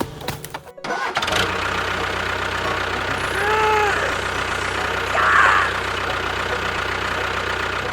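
Vehicle engine running steadily, starting about a second in. A short rise-and-fall tone sounds over it midway, and a brief chirp comes shortly after.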